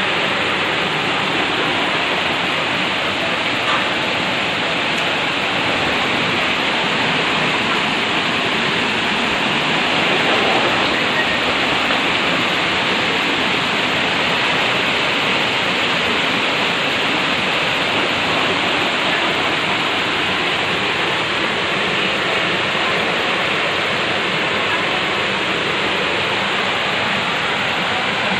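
Heavy rain and floodwater rushing in a flooded street: a steady, unbroken wash of water noise.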